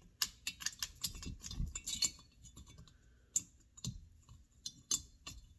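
Irregular light clicks and metal clinks of small hand tools and chainsaw engine parts being handled.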